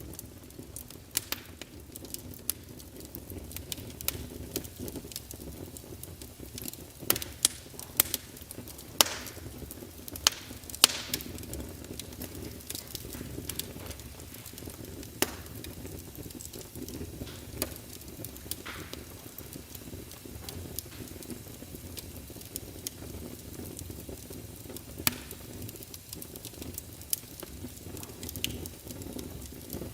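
Crackling fire: irregular sharp pops and snaps over a steady low rumble, with a cluster of louder pops about a quarter of the way in.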